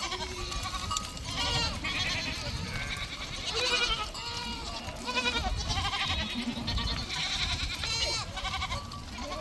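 A flock of goats bleating, many calls overlapping one after another, some with a wavering quaver.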